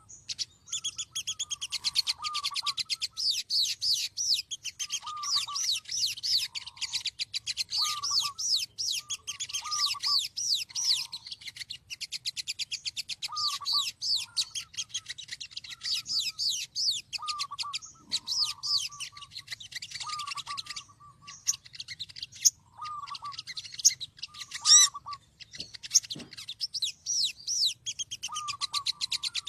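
Little spiderhunters (sogok ontong) calling: a continuous stream of rapid, high chirps, with a lower call repeated every second or two. A few sharp clicks sound in the second half.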